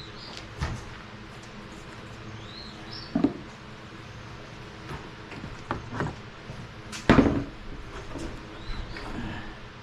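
Scattered clanks and knocks of hand tools and metal engine parts during an engine teardown, the loudest a few seconds in and again about seven seconds in. A few short bird chirps are heard in the background.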